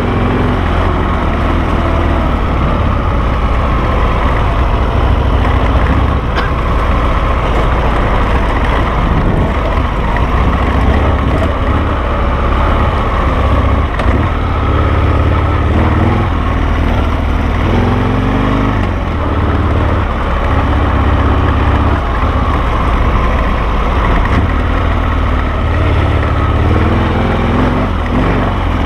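Harley-Davidson Sportster V-twin engine of a dual-sport motorcycle running under way, the revs rising and falling several times with the throttle.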